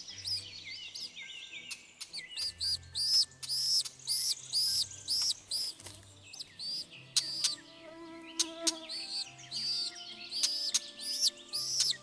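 Bird chirping: high, thin calls repeated rapidly, several a second, with brief pauses, over soft background music with low sustained notes.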